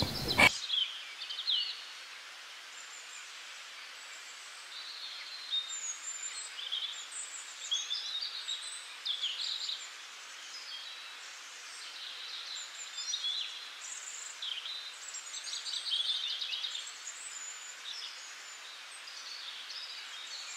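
Small birds chirping in short, scattered calls over a faint steady hiss, the chirps starting a few seconds in.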